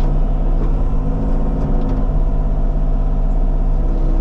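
Diesel engine of Bobcat compact earthmoving equipment running steadily at working speed, a constant low rumble with an even engine drone.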